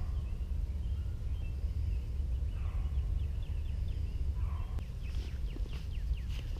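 Outdoor birdsong: scattered high chirps, then a rapid run of short descending notes for about a second and a half near the end, over a steady low rumble.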